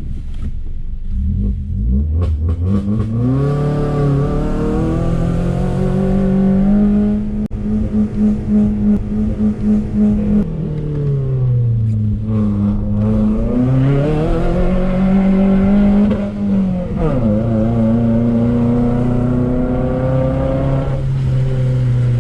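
A modified car's engine accelerating under load. The revs climb and hold high with a pulsing loudness, fall away, then climb again. Later the pitch drops suddenly, as at a gear change, runs steadier, and eases off near the end.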